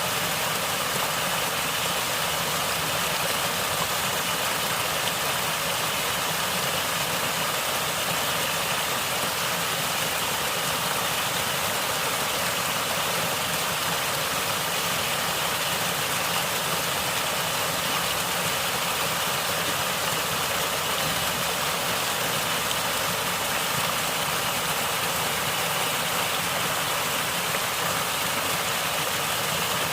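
Natural running water gurgling in a steady, even rush that stays the same throughout, mostly high hiss with little low rumble.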